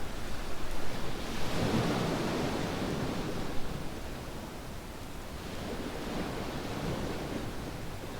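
Ocean waves on a beach: a wave breaks and washes in about a second and a half in, then the surf eases to a softer hiss, with a weaker swell near the end.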